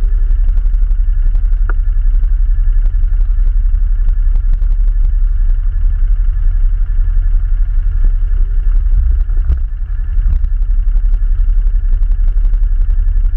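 ATV engine running steadily with a heavy low rumble, with scattered clicks and knocks over it.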